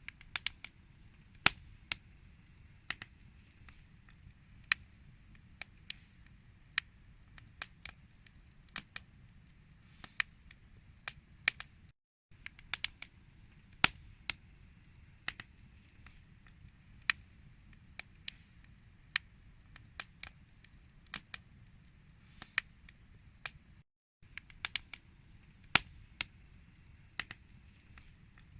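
Wood campfire crackling, with irregular sharp pops and snaps, some loud, over a low steady rumble of the burning fire. The sound drops out briefly twice.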